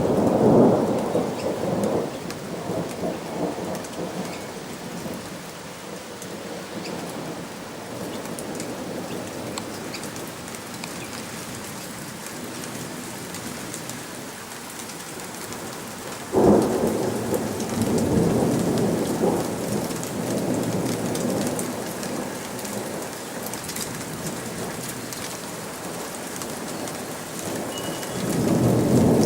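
Thunderstorm: steady rain with thunder. A rumble of thunder at the start, a sudden clap about halfway through that rolls on for several seconds, and another rumble building near the end.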